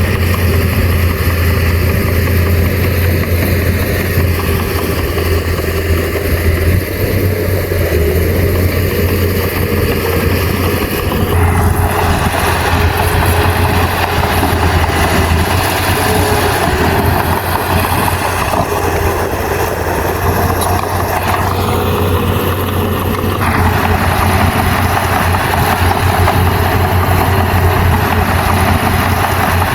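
Heavy diesel engine of a Komatsu bulldozer running steadily with a deep hum. About 11 seconds in, a louder, rougher noise joins it and lasts until about 23 seconds in, as the machine works under more load.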